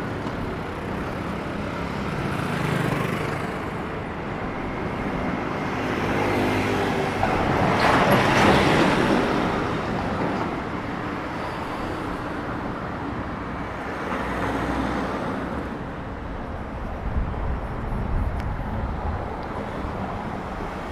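City street traffic: a steady wash of road noise, with a vehicle passing close by about eight seconds in, swelling up and fading away, and smaller passes before and after it.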